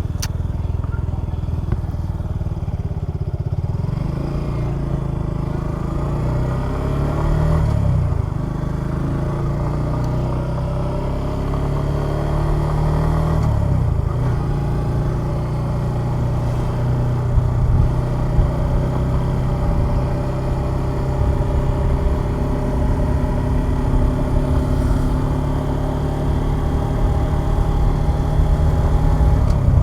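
Suzuki Gixxer 150SF's single-cylinder engine under way, pulling up through the gears: its pitch climbs, drops sharply at a shift about eight seconds in and again at about thirteen seconds, then holds fairly steady while cruising.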